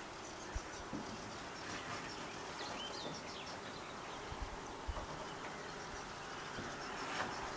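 Lakeside nature ambience: a steady outdoor hiss with faint, high repeated insect chirring, a few short bird chirps about three seconds in, and a few soft low thumps.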